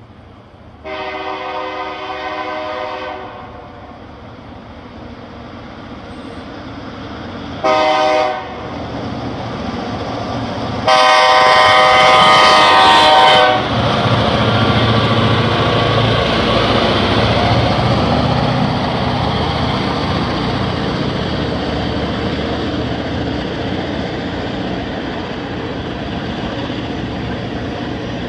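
Diesel locomotive horn sounding for a grade crossing: a long blast, a short one, then a long, loudest blast. The locomotive and a freight train of tank cars then roll past with a steady rumble of wheels on rail that slowly eases.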